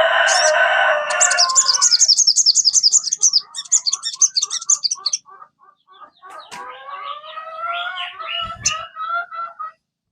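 Sogon bird calls: a long, harsh call over the first two seconds, overlapped by rapid high chattering trills that run to about five seconds in, then a run of evenly repeated notes and a rising, warbling phrase that stops shortly before the end.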